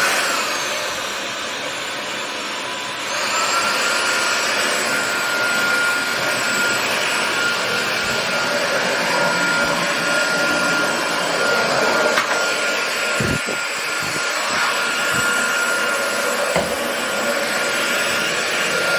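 Tefal X-Force Flex cordless stick vacuum switching on and running. About three seconds in, the motor steps up to a higher power setting and a steady high whine comes in. A few faint knocks are heard later.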